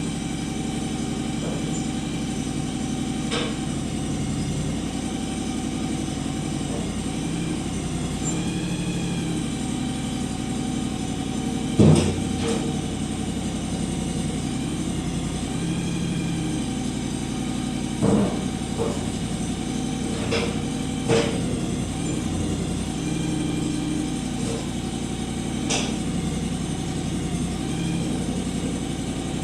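John Deere X728 garden tractor engine running steadily. A whine rises and falls over it now and then, and several sharp clunks stand out, the loudest about twelve seconds in.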